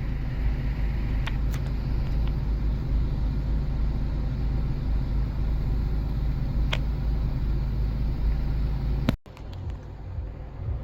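Steady low rumble of a motor vehicle on the move, with a few faint ticks. It cuts out abruptly about nine seconds in and comes back quieter.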